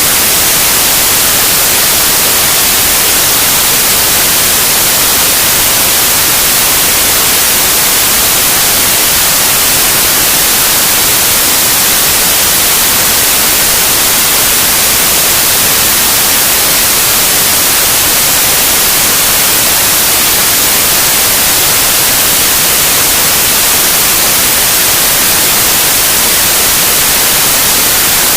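Loud, steady white noise: an even hiss across all pitches, strongest in the highs, with no change or pattern.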